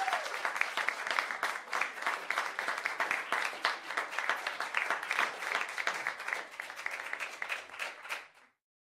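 Audience applause, a dense patter of many hands clapping that fades out and stops about eight seconds in.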